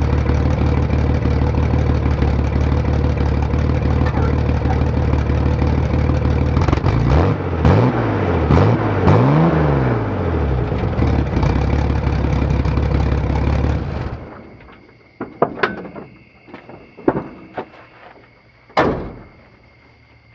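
1984 Ford Ranger's 2.8-litre V6 exhaust, loud, idling, then revved three times, rising and falling in pitch, about seven to ten seconds in. The engine is shut off about fourteen seconds in, followed by a few sharp knocks and clicks.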